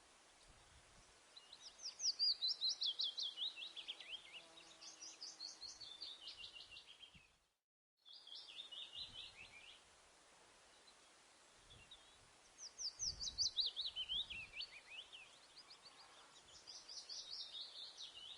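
A songbird singing repeated phrases, each a fast run of notes falling in pitch over two to three seconds, with pauses between phrases. There is a brief dropout about halfway through.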